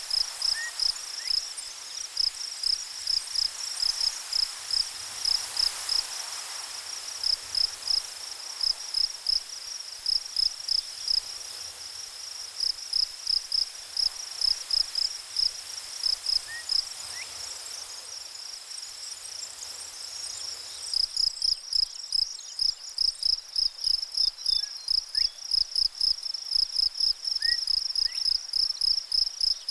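Crickets chirping in a fast, even, high-pitched pulse, busier and louder from about two-thirds of the way through.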